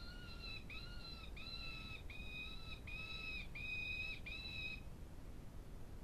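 An animal calling seven times in an even series, each call a clear, steady note of about half a second, ending about five seconds in.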